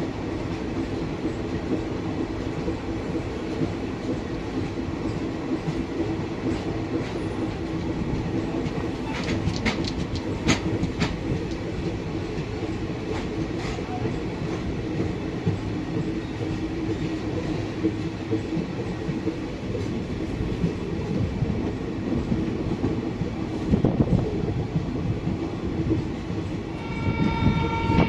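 Express train running at speed: a steady rumble of wheels on the rails with a few sharp clacks over rail joints. A horn starts sounding near the end.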